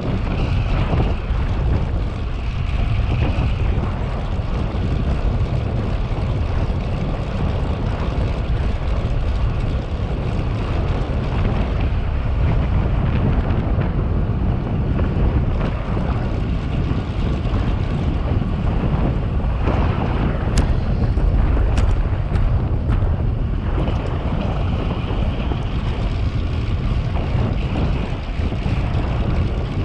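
Steady wind rushing over the microphone of a camera riding on a moving bicycle, with a low rumble. A few sharp ticks come about twenty seconds in.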